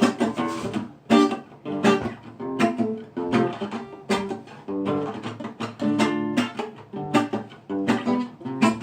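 Acoustic guitar strumming chords in a reggae rhythm, with no singing.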